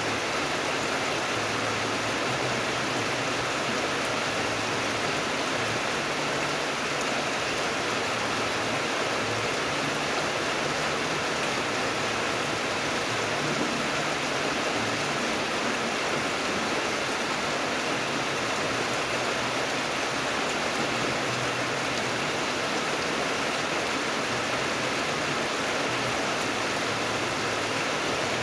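Steady rain falling, a dense, even hiss with no single drops standing out.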